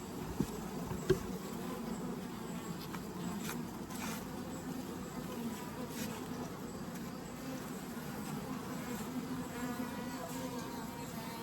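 A mass of honeybees buzzing steadily around an open Layens horizontal hive. Two sharp clicks sound about half a second and a second in.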